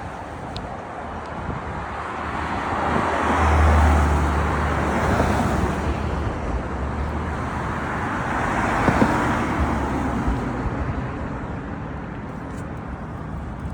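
Road traffic: cars passing close by, the tyre and engine noise swelling twice, about four and nine seconds in, over a low engine hum.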